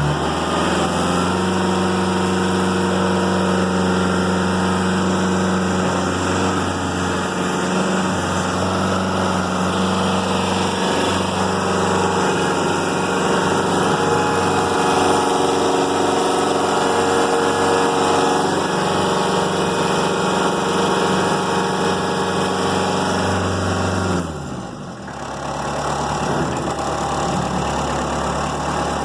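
The Kubota B3030's 30 hp four-cylinder diesel engine runs steadily at raised throttle. About 24 seconds in, its note drops briefly, then it carries on a little quieter.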